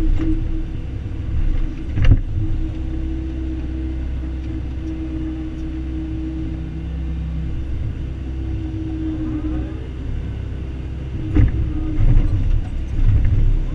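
Excavator's diesel engine running steadily while digging, with a few loud clanks and knocks, one about two seconds in and a cluster near the end.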